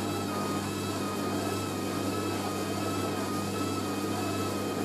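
Hoover A3060 Electronic 1100 washing machine's motor whining steadily as the drum turns a heavy, water-laden load on the final spin, with a low hum underneath and the pitch of the whine wavering slightly.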